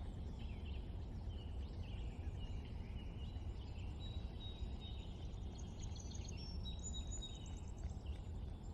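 Several songbirds chirping and twittering in quick, overlapping calls, with a few longer whistled notes, over a steady low background rumble.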